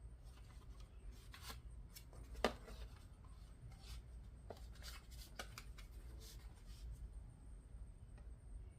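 Faint handling noises in a small room: scattered light clicks and rubbing, with one sharper click about two and a half seconds in, then it goes quiet near the end.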